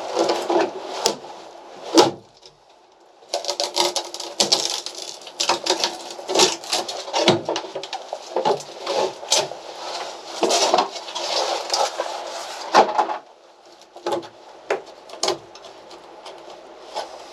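Wooden interior fittings of a small sailboat being scraped, rubbed and knocked as they are worked loose, in irregular bursts with a sharp knock about two seconds in. Near the end it thins to a few scattered knocks.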